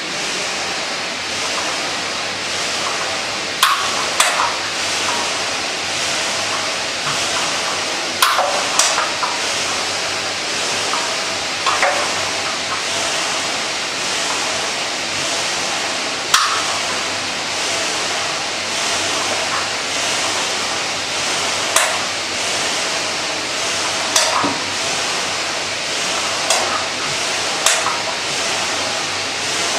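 Kayak ergometer in use: its air-resistance flywheel gives a steady rushing whoosh, with a sharp clack about ten times at uneven intervals.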